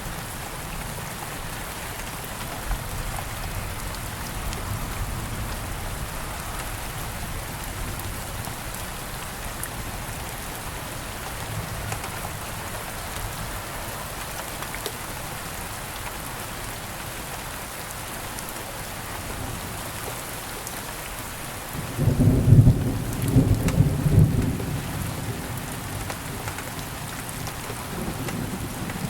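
Steady rain falling, with a loud low rumble of thunder that breaks in about three quarters of the way through, lasts a few seconds and fades.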